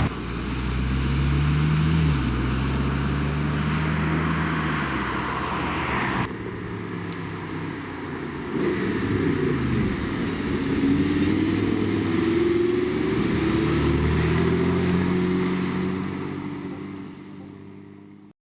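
Supercar engines accelerating, their pitch rising through the gears. The sound changes abruptly about six seconds in, a second stretch of accelerating follows, and it fades out near the end.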